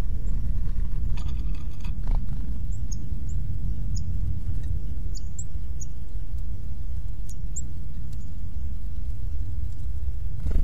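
Small wild birds giving short, high chip calls, scattered a dozen or so times, with a brief buzzy call just over a second in. Under them is a steady low rumble, the loudest sound.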